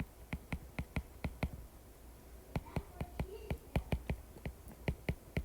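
Typing on a computer keyboard: a run of sharp keystroke clicks, a pause of about a second, then a longer, steadier run of keystrokes.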